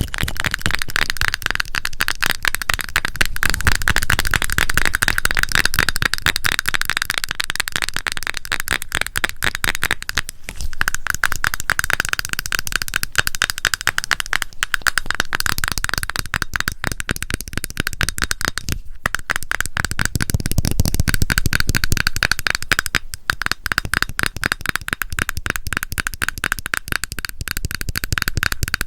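Rapid fingernail tapping and scratching on a cosmetic cream container, a dense run of quick clicks with a few brief pauses.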